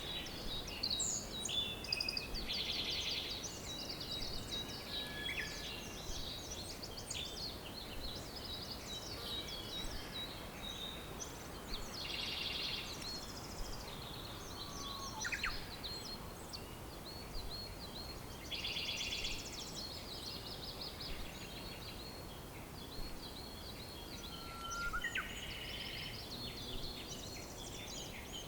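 Several wild birds chirping and singing over a steady background hiss. One bird repeats a short buzzy trill about every six or seven seconds.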